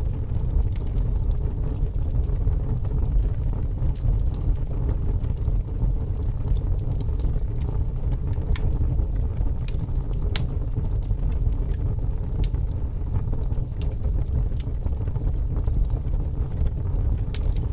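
Fire burning: a steady low rumble of flames with scattered sharp crackles and pops.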